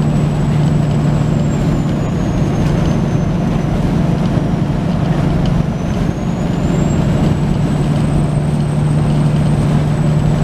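Semi truck's diesel engine running with a steady low drone, heard from the cab, with a faint high whistle that drops in pitch around the middle and rises again.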